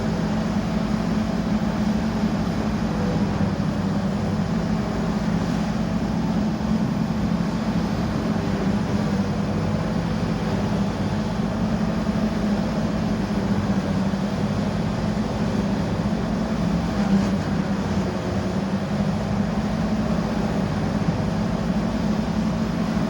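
Mighty Giant Model 5600 truck-mounted grinder running with a steady, unbroken mechanical drone.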